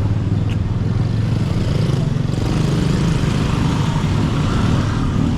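Steady road traffic noise: vehicle engines running with a continuous low rumble.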